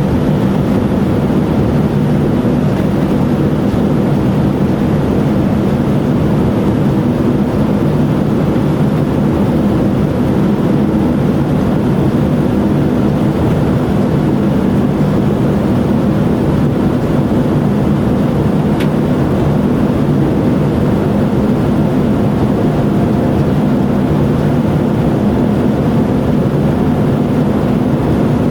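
Steady engine and airflow noise inside the cabin of a Boeing 787-9: an even drone with a constant low hum, with one faint tick about two-thirds of the way through.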